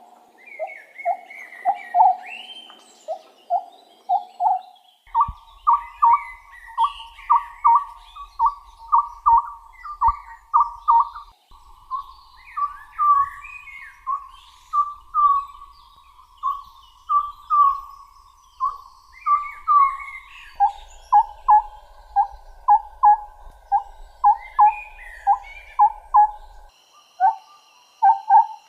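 An owl calling in a long run of short whistled notes, about two a second, repeated evenly; the run shifts slightly in pitch a few times, as if different recordings are joined. Fainter, higher bird chirps come in between the notes.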